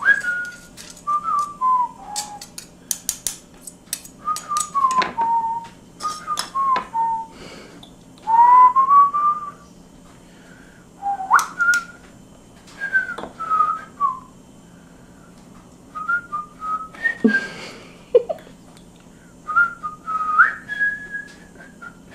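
Cockatiel whistling a broken series of short sliding notes, some rising and some falling, with sharp clicks in between.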